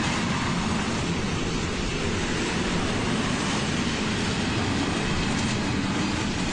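Steady rumble of a train rolling along the track, going on without a break.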